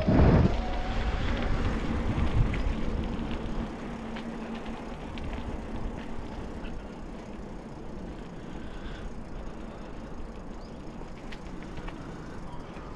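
Bicycle being ridden along a path: a steady rumble of tyres and riding noise, with a loud jolt right at the start.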